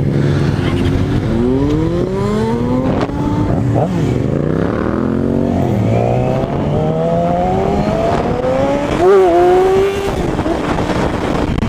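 Motorcycle engine accelerating hard, its pitch climbing, dropping back about four seconds in as it shifts up, then climbing again, with a quick rev blip about nine seconds in.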